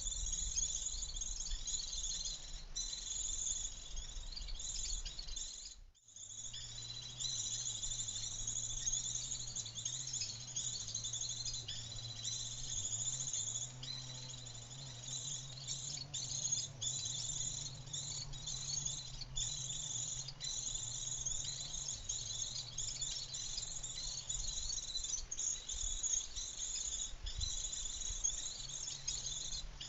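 A steady, high-pitched chorus of chirring insects that pulses with short gaps. It drops out briefly about six seconds in, and a faint low hum runs under it for a while after that.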